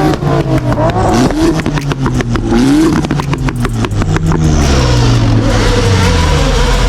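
Car engine revving hard, its pitch rising and falling repeatedly, with a rapid crackle partway through, then a steadier loud noise.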